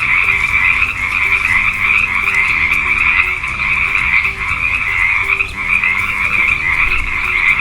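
Frogs croaking in a steady, unbroken chorus.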